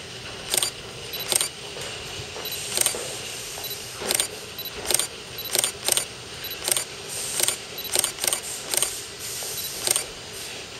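Keihan 2600 series electric train pulling slowly into a platform, its running gear giving short, sharp metallic squeaks and clicks at an irregular pace of about one or two a second over a steady rumble.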